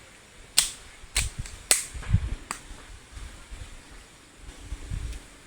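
Four sharp snaps or clicks in quick succession, about half a second apart, with low dull thuds around them.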